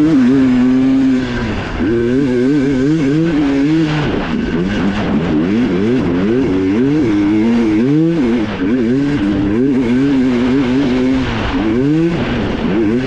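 Dirt bike engine revving up and down constantly as the bike is ridden hard on a trail, the throttle opening and closing every second or so.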